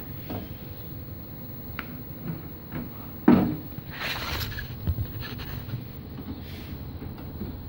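Handling noises from working inside an opened microwave oven: scattered clicks and knocks, a sharp knock about three seconds in, then a brief scraping rustle.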